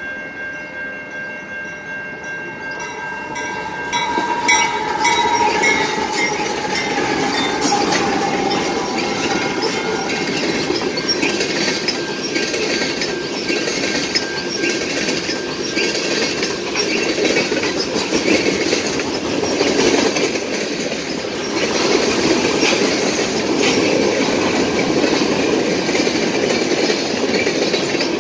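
Diesel-hauled freight train passing close by. The locomotive goes by about four seconds in with a falling tone, then covered hopper and tank cars roll past, their wheels clacking over the rail joints and squealing.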